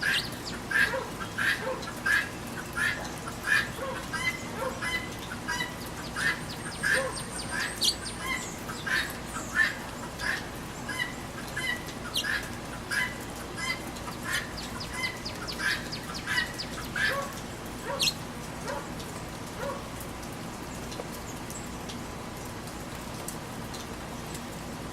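Guinea hen squawking a harsh call over and over, more than once a second, then falling silent about two-thirds of the way through. Steady rain hiss underneath.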